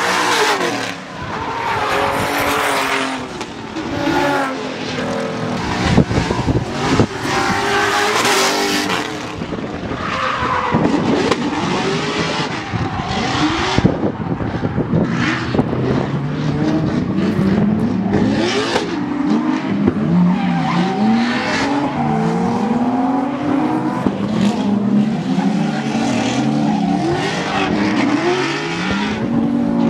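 Drift car engine revving hard up and down again and again, with tires squealing and skidding as it slides.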